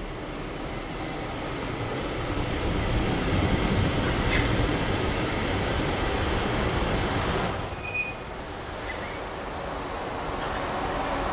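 JR Hokkaido 731 series electric local train running on the track, its wheel and running noise building up and then easing off sharply about two-thirds of the way through. A few short, high wheel squeaks come around the drop.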